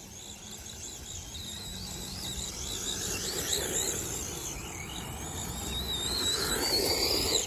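Brushless electric motor of a 1/14-scale LC Racing EMB-T RC truggy whining at high pitch, the whine wavering up and down with the throttle over tyre and ground noise. Near the end it climbs and holds as the truck speeds up, getting louder, then cuts off suddenly.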